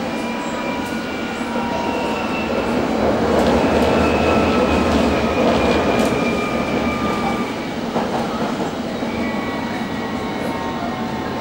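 London Underground S8 stock train running between stations, heard from inside the car. A steady rumble of wheels on rail swells for a few seconds in the middle, with several thin whining tones drifting slightly in pitch above it and a sharp click about six seconds in.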